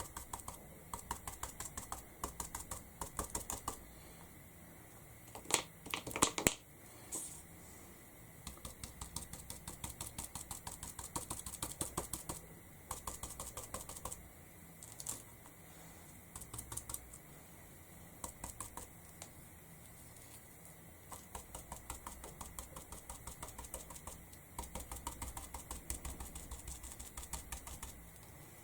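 Stipple brush pounced rapidly onto a canvas, a fast run of soft taps coming in bursts with short pauses. A few louder knocks about six seconds in.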